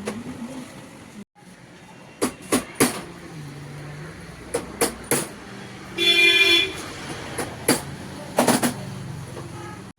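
Traffic noise in the background with one short vehicle horn toot about six seconds in, amid a scattering of sharp clicks and knocks.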